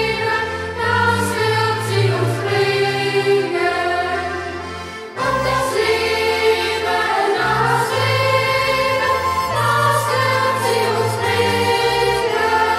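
Youth choir singing a German hiking song in held phrases over a steady low accompaniment.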